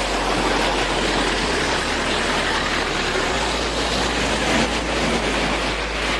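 Floodwater rushing: a loud, steady, unbroken rushing noise.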